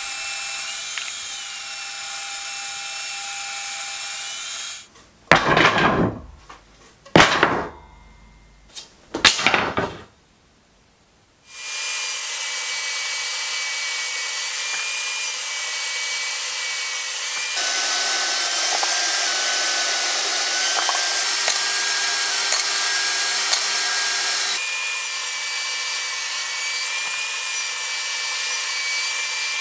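Woodworking power tools running steadily in a series of short cut clips, their pitch shifting slightly from section to section. About a third of the way in, three loud knocks break in, followed by a brief near silence.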